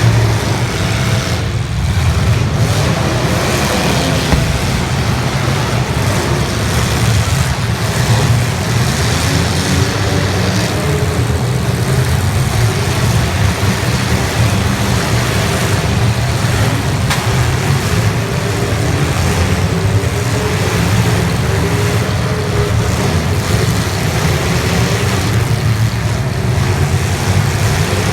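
Several demolition derby cars' engines running and revving together, their pitch rising and falling without a break.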